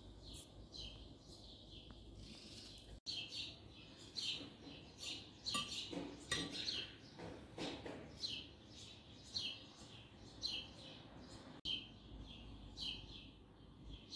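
A small bird chirping over and over, short high notes about twice a second. In the middle come a few light clicks and clatters of wooden skewers being laid on a ceramic plate.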